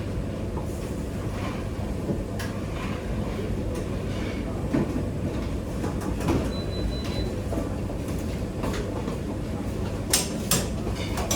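Steady low rumble of kitchen background noise, with a few sharp clicks and knocks of utensils or equipment: one about two seconds in and two close together near the end.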